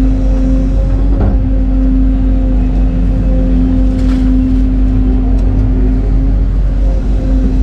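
Excavator's diesel engine running steadily with a constant hum, and a few brief knocks about a second in and again around four seconds.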